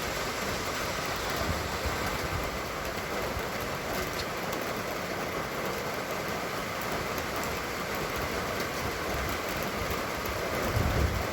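Steady hiss of rain falling, with scattered faint drop ticks. A low rumble comes in near the end.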